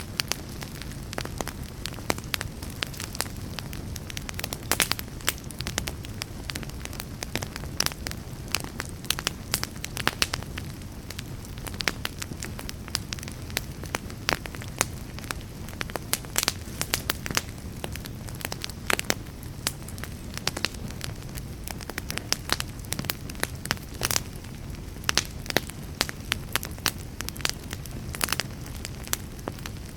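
Wood fire burning in a fireplace: a steady low rumble of flame with frequent irregular crackles and sharp pops.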